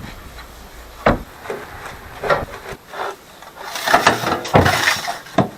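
A fireplace ash drawer being slid out and pushed back in, scraping, with a knock about a second in and another near the end; the drawer's position sets how much outside combustion air reaches the firebox.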